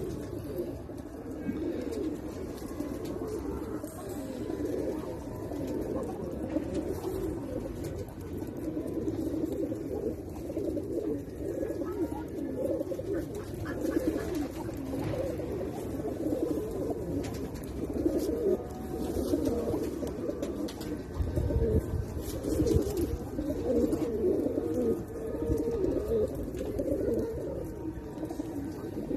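Many pigeons cooing together in a steady, overlapping chorus of low calls, with a few low thuds about three quarters of the way through.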